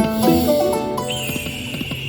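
Poker machine's electronic game sounds: a quick run of stepped chiming tones, then a steady high beep held from about a second in.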